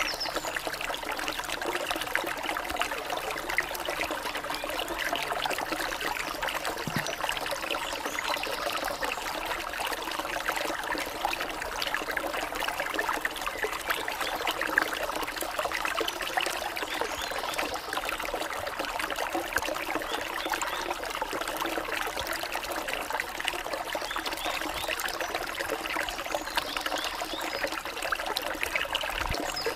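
Running water of a stream trickling over rocks, a steady, unbroken babble.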